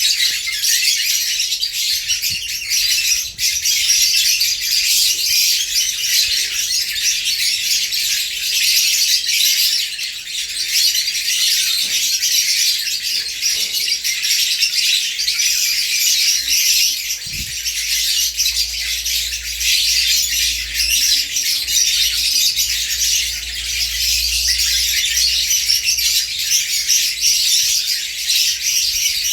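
African lovebirds squabbling: continuous shrill chattering and squawking from a territorial pair facing off.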